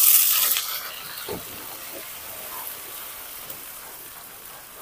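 Hot oil in a wok sizzling hard as wet ginger-garlic paste goes in over light-brown fried onions. The hiss dies down about half a second in to a steady, quieter sizzle as the water in the paste cooks off.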